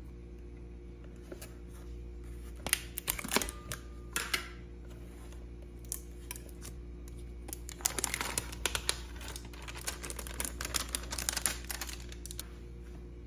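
Kitchen handling sounds: a few sharp clinks and knocks, then a quick run of rapid clicks and scrapes lasting about four seconds, over a steady low hum.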